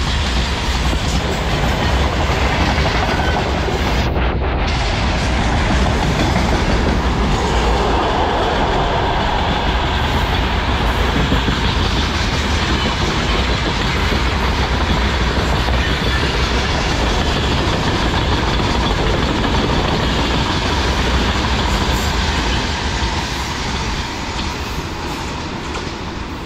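Freight train of open gondola wagons rolling past at speed, a steady rumble and clatter of steel wheels on the rails, easing off slightly near the end as the last wagons go by.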